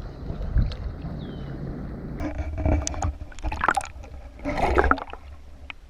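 Water splashing and sloshing with short handling knocks in a kayak, in several bursts over a steady low rumble, picked up by a GoPro's built-in mic.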